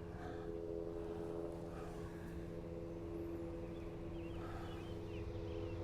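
Steady drone of an approaching EMD DM30AC diesel locomotive leading a passenger train, still some way off, with birds chirping over it in the second half.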